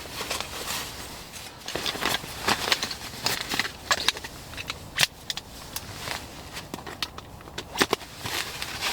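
Irregular crackling, clicks and rustling as camping gear is handled in the snow, with some sharp clicks standing out.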